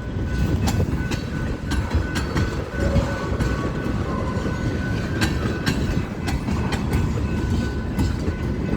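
BNSF freight train rolling slowly past: a steady low rumble of the cars with irregular clicks and clanks of wheels over the rail joints.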